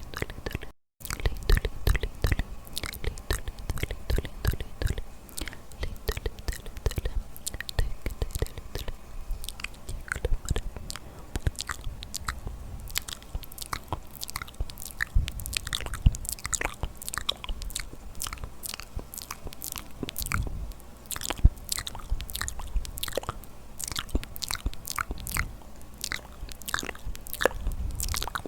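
ASMR mouth sounds made close to the microphone: a dense, irregular run of wet clicks and smacks from the lips and tongue, with a brief break about a second in.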